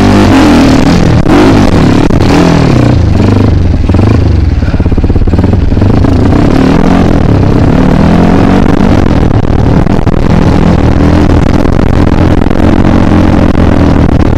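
Kawasaki KLX dirt bike engine running under load, revving up and down several times in the first few seconds, then holding a steadier pace.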